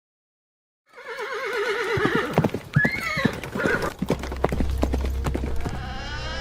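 Horse neighing with a wavering whinny, then hooves clip-clopping, with a second short neigh about three seconds in. A steady low rumble comes in about four seconds in.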